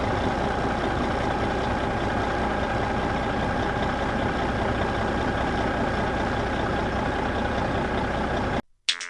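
Truck engine idling steadily, cutting off abruptly near the end.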